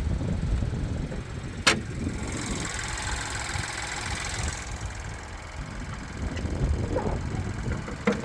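GM 1.2-litre turbocharged three-cylinder engine idling steadily, with a single sharp click about one and a half seconds in.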